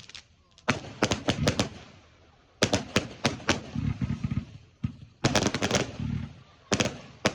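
Fireworks going off in quick clusters of sharp bangs and cracks, about five volleys of several reports each, roughly a second apart.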